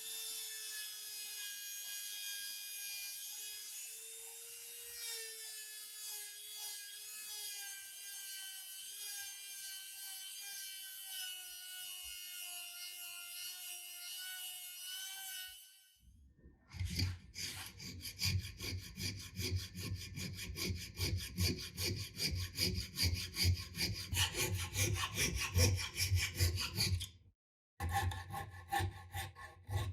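A steady machine whine whose pitch slowly falls. It stops suddenly about sixteen seconds in, and rapid back-and-forth strokes of a hand tool on wood follow, sawing or rasping, with a brief pause near the end.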